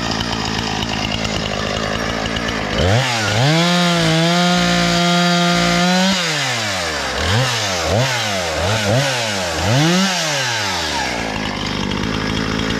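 Husqvarna 460 Rancher two-stroke chainsaw idling, then revved up sharply about three seconds in and held at high speed for about three seconds, then blipped four times before dropping back to idle. It is running well, its faulty magneto since repaired.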